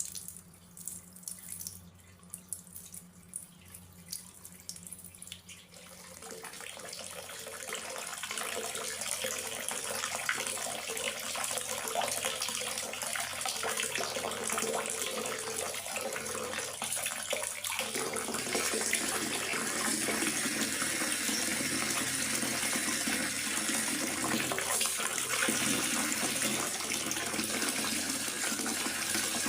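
Rain: scattered single drops at first, then about six seconds in a steady downpour hiss builds up and holds.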